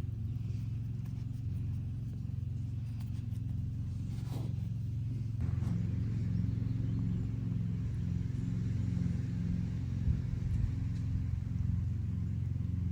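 Steady low rumble of a running engine, with a couple of short louder knocks about ten seconds in.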